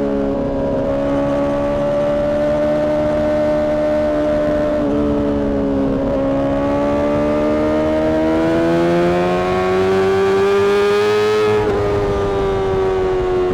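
Honda CBR600RR's inline-four engine, through a Mivv exhaust, running at high revs. Its pitch climbs slowly and dips briefly a few times.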